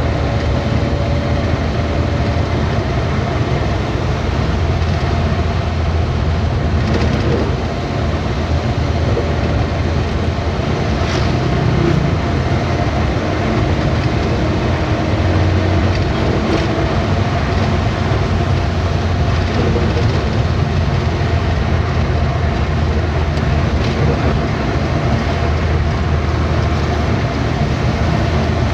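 Truck driving along a road: a steady engine drone with road and tyre noise, and a few faint knocks and rattles.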